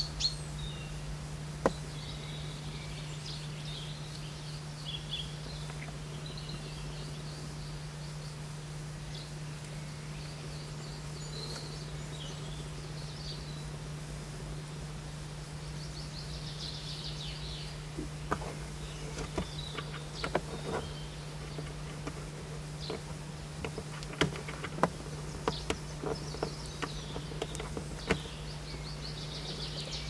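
Small songbirds singing thinly in the background over a steady low hum, with a scatter of sharp taps in the second half as a Eurasian jay pecks at the ground and twigs.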